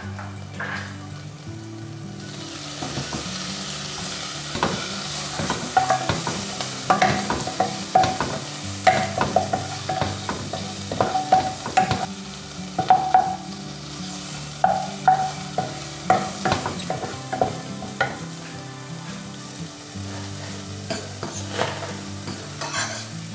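Food sizzling in a frying pan while a utensil stirs it, with frequent clicks and scrapes of the utensil against the pan. The sizzle picks up about two seconds in.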